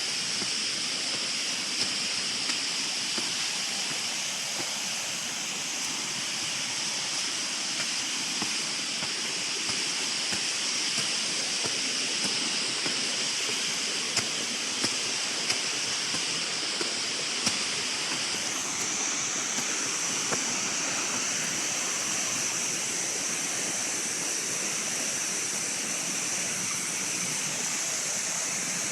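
Continuous rushing water of a forest stream or waterfall, steady throughout, with a high, even whine above it that shifts a little higher about two-thirds of the way through.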